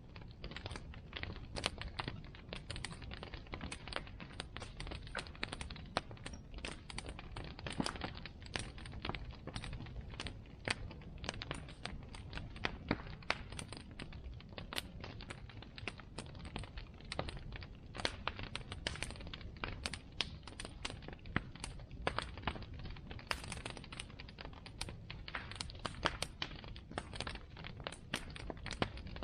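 Bonfire burning: wood crackling with many irregular sharp snaps and pops over a low, steady rumble.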